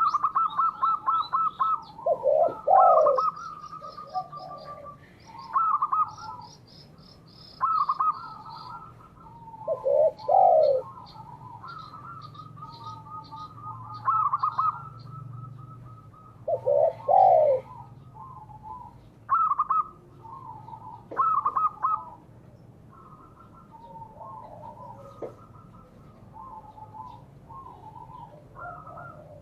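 Spotted doves and zebra doves cooing in repeated phrases every couple of seconds. Some phrases are swooping coos, others rapid strings of short higher coos. Faint quick chirping of small birds runs behind them.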